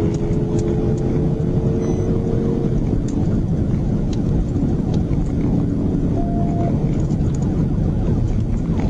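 Police patrol car driving at speed: steady engine and road noise.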